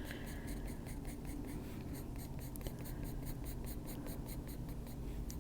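Colored pencil shading on a colouring-book page: quick, even back-and-forth strokes of the lead scratching across the paper, several a second, as an area is darkened.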